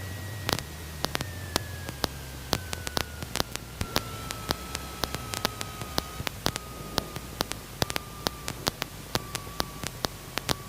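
Hiss and static from a light aircraft's intercom feed, crackling with frequent irregular sharp clicks, several a second. A faint thin whine slides slowly down in pitch throughout.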